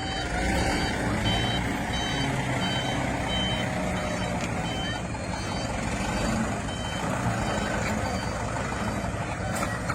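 A truck's reversing alarm beeping about twice a second over its engine running; the beeps fade out after about seven seconds.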